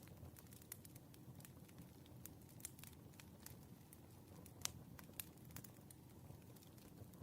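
Campfire crackling quietly, with irregular small pops over a low steady rumble and one sharper pop a little past the middle.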